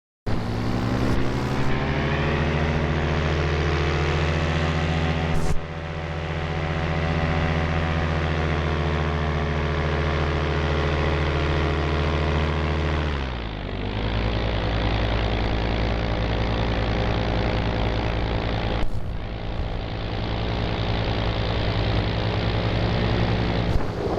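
Piston engine of a light propeller aircraft running steadily, heard from on board; about halfway through, the engine note drops and settles lower as the throttle is changed.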